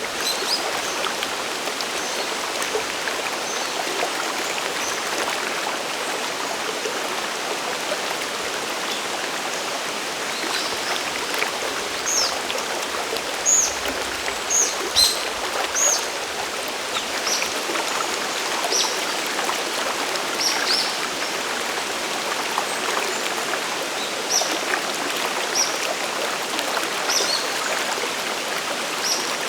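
Mountain stream water running steadily over rocks, a continuous rushing hiss. From about a third of the way in, a bird gives many short, high chirps over the water.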